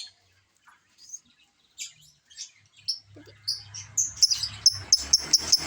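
Pet lovebird chirping: a few scattered short, high chirps, then from about four seconds in a fast run of sharp chirps, several a second.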